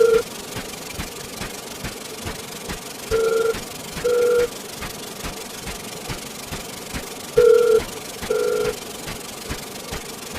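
Paired electronic beeps, each a short medium-pitched tone with a higher overtone, sounding twice about a second apart with a pair roughly every four seconds. Under them runs a steady clutter of rapid clicks and hiss from layered sound effects.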